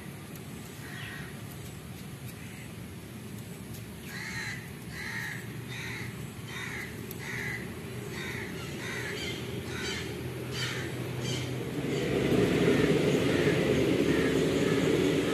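A bird calling over and over: about ten short calls, a little faster than one a second. Near the end a louder, steady low rumble sets in.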